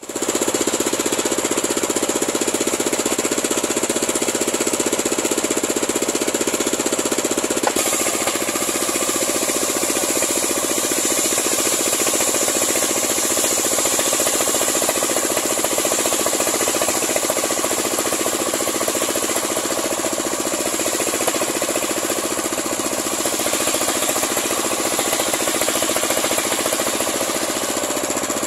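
Homemade engine-driven circular sawmill running steadily and loudly, its motor and spinning blade making a dense mechanical noise that shifts abruptly about eight seconds in.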